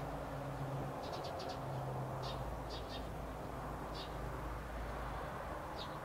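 Outdoor ambience: a small bird chirping in short high calls, once in a quick run of four about a second in and singly or in pairs after that, over a steady background rumble with an on-and-off low hum.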